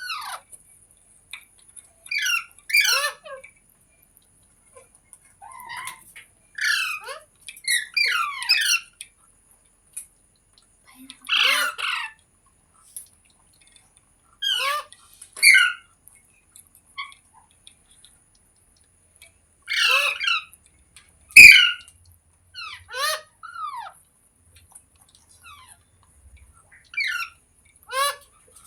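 A pet green parrot giving short, harsh squawking calls in irregular bursts, with pauses of a second or more between them. The loudest squawk comes a little past two-thirds of the way through.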